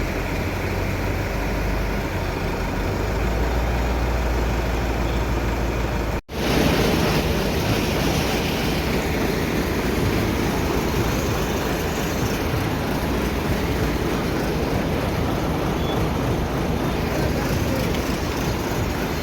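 Steady machinery noise with a low rumble, cutting off abruptly about six seconds in to a different steady mechanical din.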